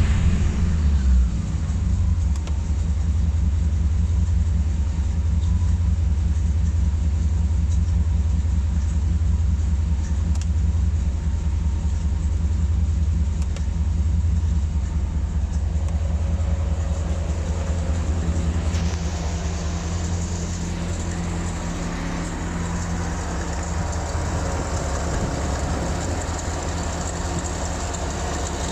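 Corvette C4 V8 engine running steadily with a deep rumble, freshly fitted with new crankshaft bearings. About two-thirds of the way through it eases to a slightly quieter, even run.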